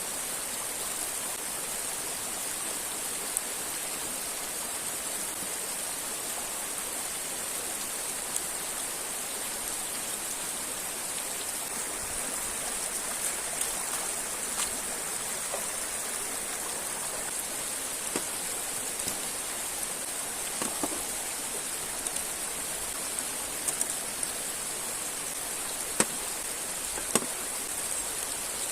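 Steady rush of river water with a high hiss, with a few scattered sharp ticks.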